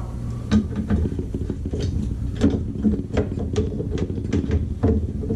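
Irregular metallic clicks and clinks of hand tools and faucet parts being handled, about a dozen in all, over a steady low hum.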